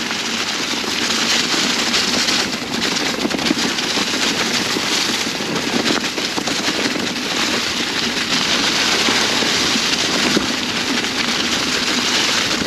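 Mountain bike tyres rolling down a trail covered in dry fall leaves: a dense, continuous crackling rustle.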